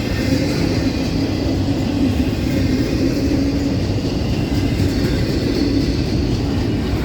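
Long CSX intermodal freight train rolling past a grade crossing: a steady, even rumble of wheels on rail.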